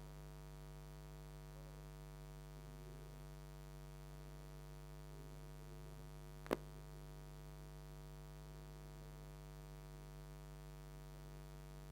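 Low steady electrical hum, with a single sharp click about halfway through.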